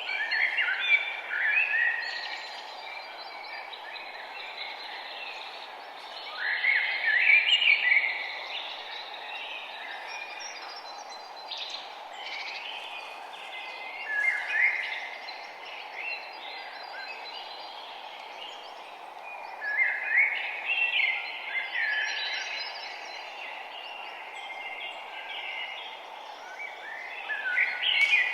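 Songbirds singing and chirping, with louder bursts of rapid song every six to eight seconds, over a steady background hiss.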